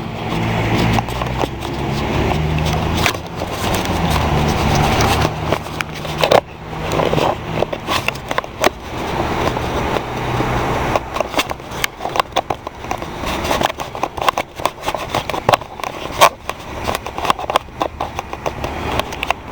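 A road vehicle's engine running at low pitch for roughly the first half, then many short crackles and knocks over a rough outdoor noise through the second half.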